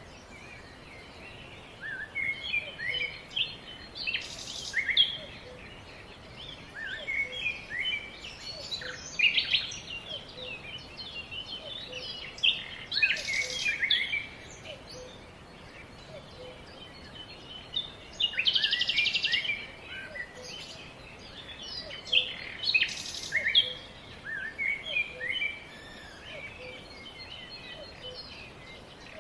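Several wild songbirds chirping and calling, short overlapping chirps and trills coming in clusters, with one rapid buzzy trill about two-thirds of the way through, over a steady background hiss.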